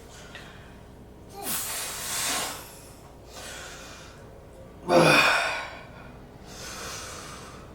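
A man breathing hard from exertion during a weightlifting set: a long heavy exhale about a second and a half in, then a louder, voiced exhale with a falling pitch about five seconds in, with quieter breaths between.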